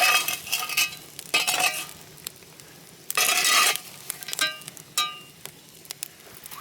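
Wood fire crackling and popping in a rocket stove stacked from concrete blocks, burning pruned grape vine stems and leaves: many sharp pops, with three louder hissing rushes of about half a second each.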